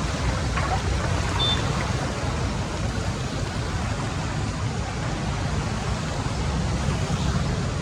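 Floodwater rushing steadily into a cleared storm drain.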